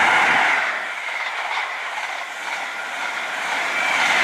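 A Class 43 High Speed Train (InterCity 125) passing through the station at speed: a loud rush of train and rail noise that eases in the middle and swells again near the end.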